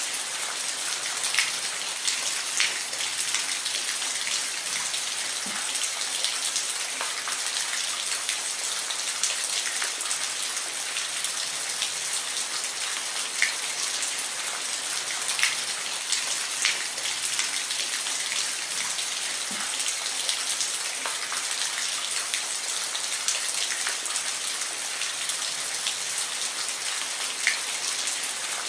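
Steady rain: a dense high hiss of falling rain with scattered, distinct drop ticks landing on a surface every second or two.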